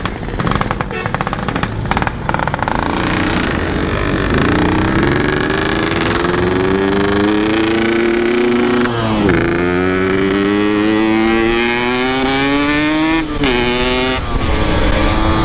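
Yamaha RX-King's 135cc two-stroke single running rough, then accelerating hard, rising in pitch with a gear change about nine seconds in and another near thirteen seconds. The rider says the engine is very noisy and knocking badly.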